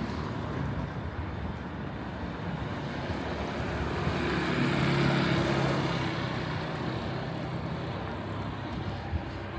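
A motor vehicle driving past, its engine and tyre noise swelling to a peak about halfway through and then fading, over steady street background noise.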